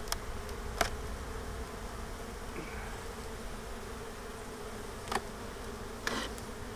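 Honeybees buzzing steadily around an open hive, with a few short clicks and knocks from the wooden frames and equipment being handled.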